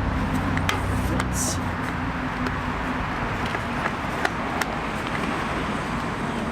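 Steady rushing background noise with a low hum, under a few light clicks and taps as a plastic body panel is pushed into place on a motorcycle.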